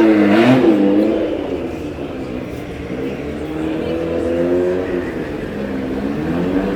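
Car engine revving through its exhaust, the pitch climbing and falling back several times as the throttle is blipped.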